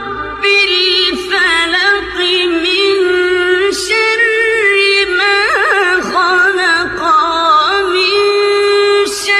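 Gojol (Bengali Islamic devotional song) sung a cappella style: a voice carrying a wavering, heavily ornamented melody over a steady held drone note.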